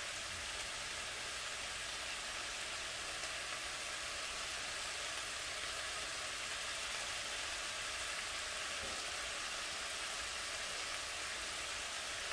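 Stir-fry vegetables sizzling in a frying pan on a hot burner, a steady, even hiss.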